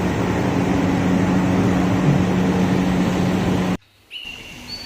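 Aquarium sounds: a steady rush of water with a low hum, typical of a running tank filter or air pump. The sound cuts off abruptly near the end, and birds chirp briefly after it.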